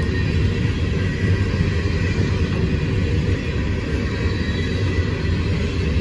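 CSX freight train rolling past, a steady rumble of wheels on rail that holds an even level without a break.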